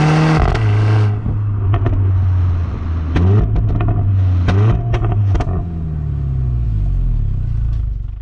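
Mercedes A45 AMG's turbocharged 2.0-litre four-cylinder, through an AMG performance exhaust, accelerating hard, then lifting off about a second in. It then runs at lower revs, with two brief rises in pitch and several sharp cracks, and fades away near the end.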